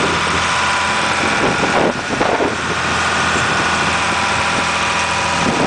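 Steady engine drone heard from inside a passenger cabin, with faint voices around two seconds in.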